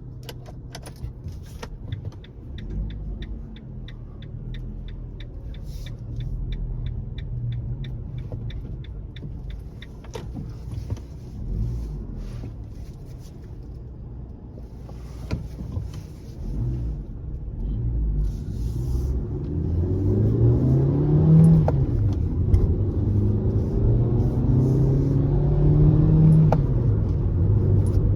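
Fiat Fiorino van's engine running at low speed, with a quick, even ticking for several seconds early on. Later the engine grows louder as the van accelerates, its pitch rising and dropping back twice as it changes up through the gears.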